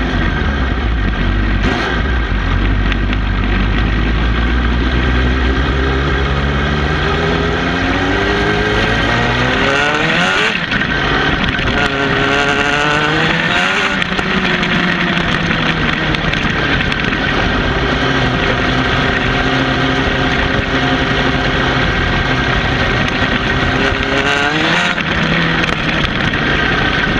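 Suzuki GSX-R750 inline-four engine running while the bike is ridden, heard from close by the exhaust. The revs rise and fall with the throttle, climbing sharply about ten seconds in, again near fourteen seconds and again near twenty-five.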